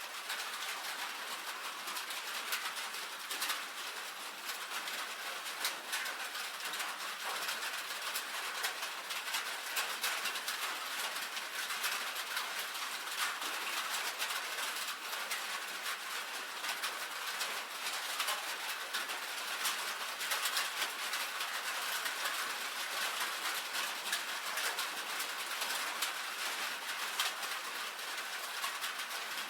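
Rain falling on a tin roof: a steady, dense patter of many drops striking the metal sheeting.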